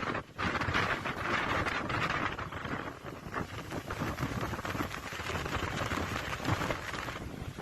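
Dust-storm wind blowing hard over the microphone, an uneven rushing noise that surges and eases, with a brief drop just after the start.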